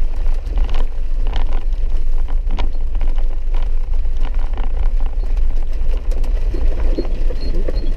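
Four-wheel-drive vehicle driving over a rough, wet dirt road, heard from inside: a steady low rumble of engine and road noise, with scattered knocks and rattles as it jolts over the track.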